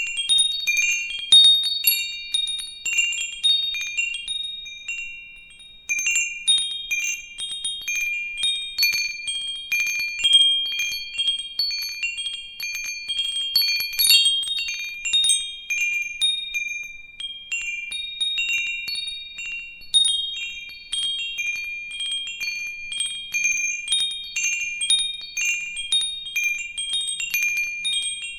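Wind chimes jingling irregularly, several high ringing tones struck over and over and fading out, with a brief lull about five seconds in.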